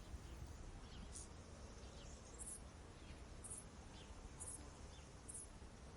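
Faint meadow ambience: short high chirps about once a second, like an insect, with a few faint falling bird calls over a low wind rumble. No mooing.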